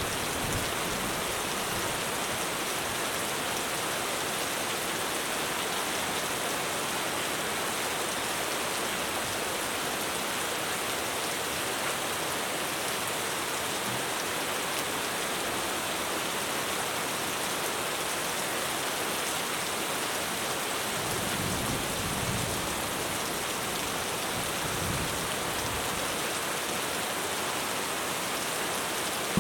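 Heavy rain drumming on a roof as a steady, even hiss. Low rumbles of distant thunder come in about two-thirds of the way through.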